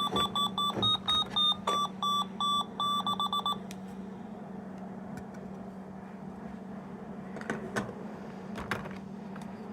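Tinny electronic beeping melody from a sound-playing capsule toy, a run of short notes that stops about three and a half seconds in. Later come a few faint clicks, followed by a low steady hum.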